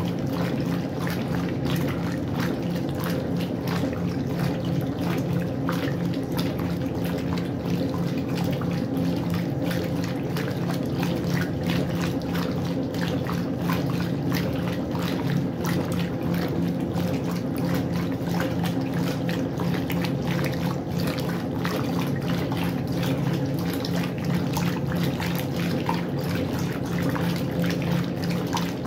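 Westinghouse washing machine running: water splashing and trickling over a steady low hum.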